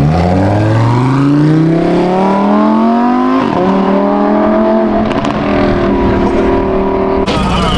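A car engine accelerating hard, its pitch rising steadily for about three seconds, then dropping at a gear change and holding a steady pitch. It cuts off suddenly near the end.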